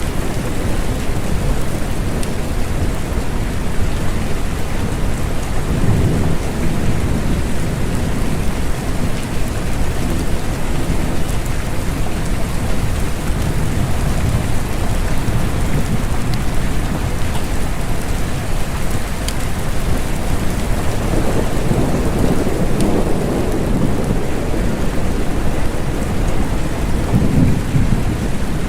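Steady rain falling, with low rolls of thunder swelling about six seconds in, again a little past twenty seconds, and near the end.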